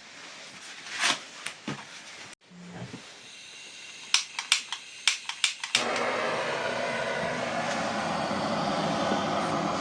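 First fire being lit in a new wood-burning stove-fireplace: a quick run of sharp clicks, then a steady rushing hiss starts suddenly about six seconds in and holds evenly.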